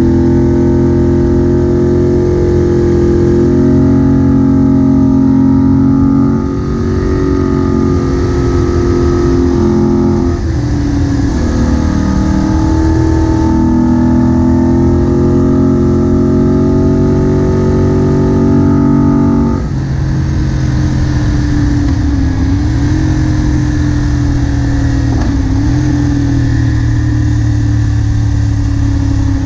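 Moto Guzzi Bellagio's air-cooled V-twin engine running steadily under load, heard from onboard the motorcycle. The throttle eases briefly three times, and after the last dip, about two thirds of the way in, the engine settles at a lower, steady pitch.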